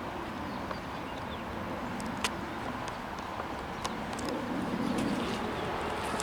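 Low, steady rumble of an approaching diesel locomotive pair running light, growing a little louder about five seconds in. Bird chirps and a few sharp clicks sound over it.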